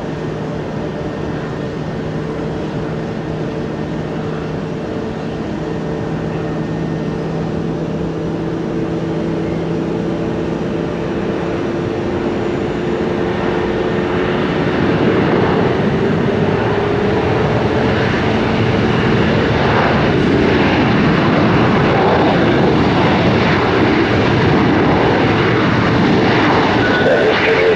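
Aircraft engines growing steadily louder: a steady hum with a tone that rises slightly in pitch, then a rougher rushing engine noise building through the second half as the aircraft comes closer.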